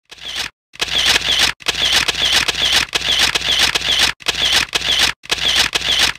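Rapid repeated clicking, about four clicks a second, in edited bursts that cut off suddenly into brief silences.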